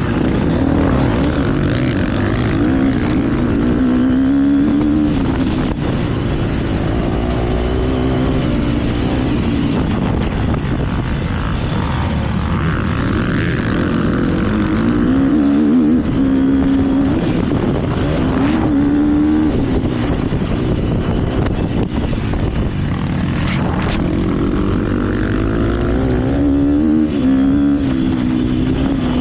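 KTM motocross bike engine revving up and falling back again and again as it accelerates, shifts and slows through the track. Heavy wind rush over the onboard camera's microphone runs underneath.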